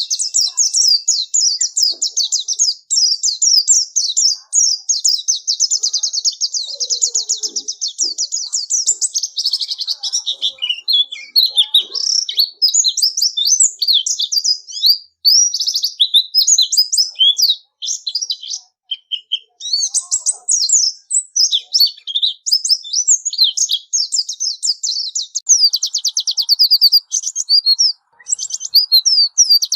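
White-eye (pleci) singing a long, fast, high-pitched twittering song of rapid trills and chirps, almost without pause, with a few brief breaks.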